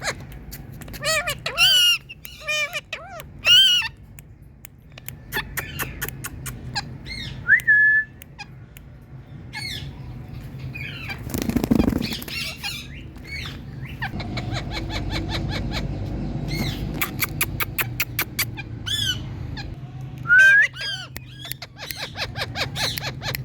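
Indian ringneck parrots (rose-ringed parakeets) calling with repeated short, shrill squawks, a few of them loud, mixed with clicks. A brief rushing noise comes about twelve seconds in.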